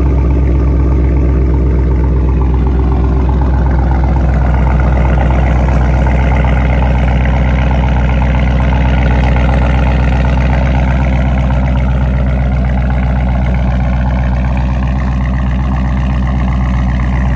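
Dodge Charger Scat Pack's 392 (6.4-litre) HEMI V8 idling steadily and loud, with a deep low rumble.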